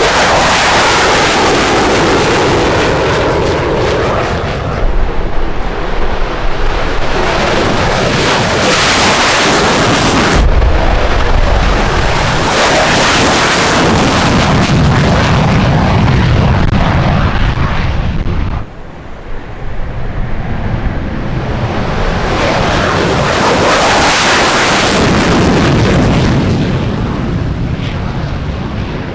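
Military fighter jet engines running loud at high power, a dense rushing noise with a deep rumble underneath. The sound changes abruptly twice, about a third and two-thirds of the way through, as between separate shots.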